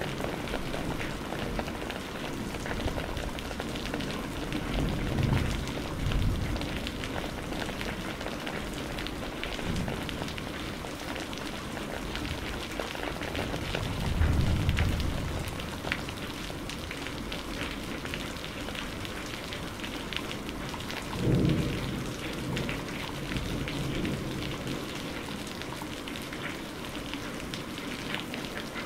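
Rain falling steadily with distinct drops, and low rumbles of thunder swelling up three times, about five, fourteen and twenty-one seconds in.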